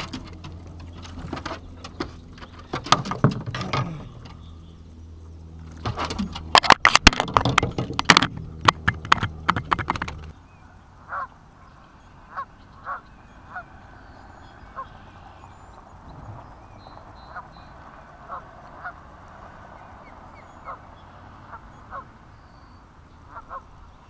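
Knocks and clicks over a low steady hum for about ten seconds, which cut off suddenly. Then a bird gives short, repeated calls about once a second over a quiet steady background.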